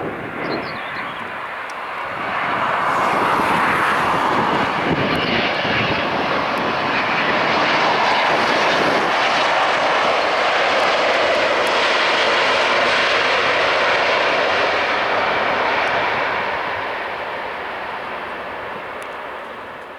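A jet airliner's engines passing close by, loud and steady: the noise swells about two seconds in, holds, and fades away over the last few seconds.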